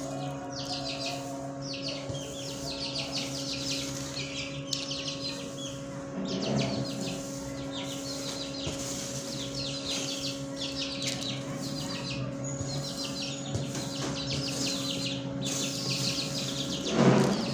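Many small cage birds chirping continuously in rapid, overlapping calls, over a steady electrical hum. A louder, lower sound stands out briefly a few seconds in and again near the end.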